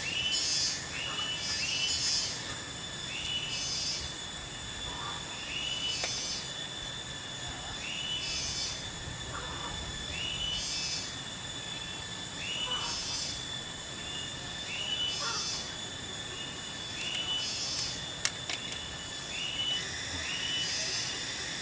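A bird calls over and over in short arched notes, one every second or two, over a steady high insect drone. A couple of sharp clicks come near the end.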